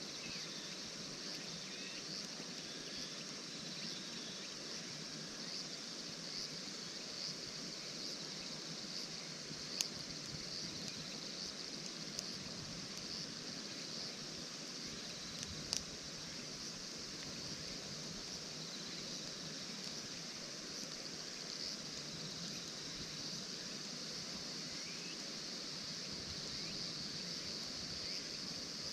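Insects chirping in a high, steadily repeating pulse, over a low steady rushing background, with a few sharp clicks about ten, twelve and sixteen seconds in.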